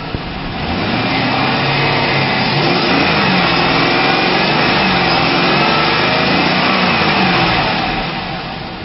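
2004 GMC Yukon Denali's 6.0-litre V8 running and being revved, the engine note rising and falling several times before easing off near the end.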